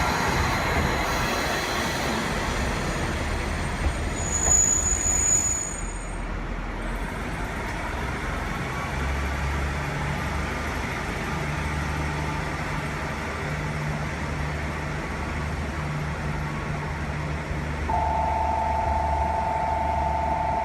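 Kazekko diesel railcar moving on station tracks, with a brief high wheel squeal about four seconds in, then settling into a steady low engine hum. A steady two-note tone starts near the end.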